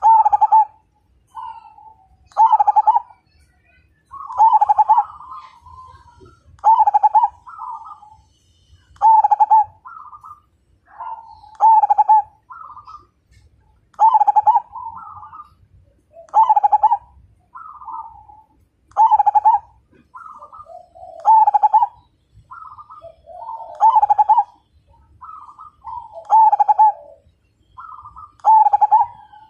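Zebra dove (perkutut) cooing: the same phrase of short coos over and over, with a loud low coo at the end of each phrase about every two and a half seconds.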